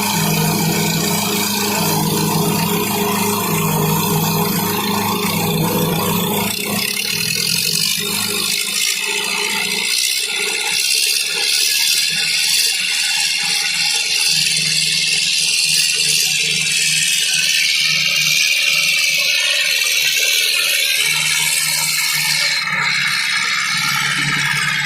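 Tractor engines running hard under load with loud mechanical rattling; the deep, pulsing engine note drops away about six seconds in, leaving a higher whine and clatter.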